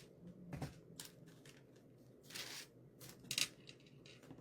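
Faint handling sounds: a few light clicks and knocks and a brief rustle as wooden craft-kit pieces and a glue bottle are handled on a table.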